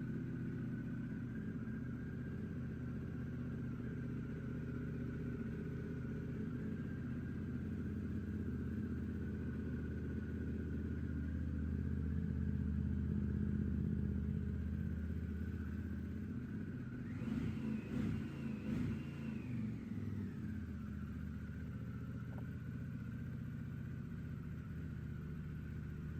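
Harley-Davidson Pan America 1250 Special's 1250 V-twin idling steadily through a Screaming Eagle titanium exhaust, with a few quick throttle blips about two-thirds of the way through before it settles back to idle.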